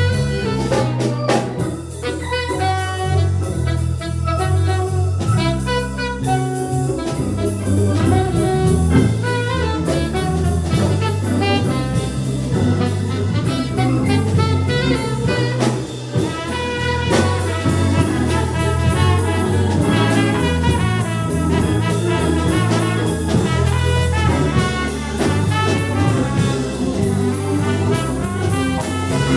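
Live jazz band playing an instrumental, with horns over a drum kit.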